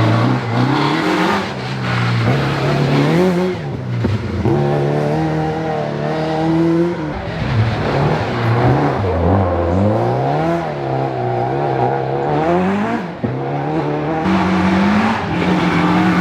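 Rally car engine revving hard on a gravel forest stage, its pitch climbing and dropping again and again as the driver accelerates and lifts, with a brief drop in level about thirteen seconds in.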